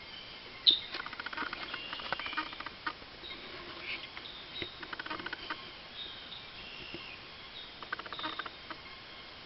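Eastern bluebirds at the nest with young: a sharp high chirp about a second in, faint high calls, and three short bursts of rapid, clicking twitter.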